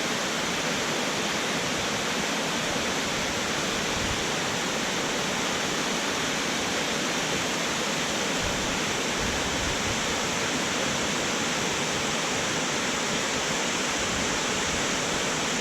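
Waterfall pouring over a cliff: a steady, unbroken rush of falling water.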